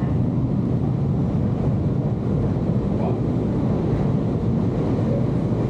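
Steady low noise of a Nankai Railway commuter train heard from inside the passenger car.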